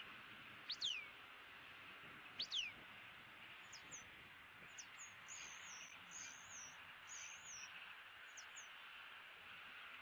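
Wild birds calling: two loud whistles sliding steeply down in pitch about a second apart, then a run of short, high chirps and warbled notes, over a steady faint background hiss.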